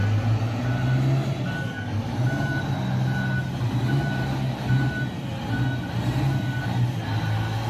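Heavy vehicle's reversing alarm beeping steadily, a single high tone a little more than once a second, over the low steady run of a diesel engine.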